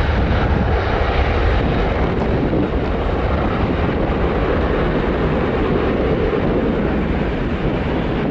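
Airliner's engines at take-off power, a steady loud rush of engine noise.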